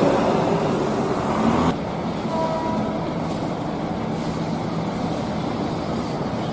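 A large motor vehicle's engine running, with road-traffic noise. The sound changes abruptly and drops slightly in level a little under two seconds in.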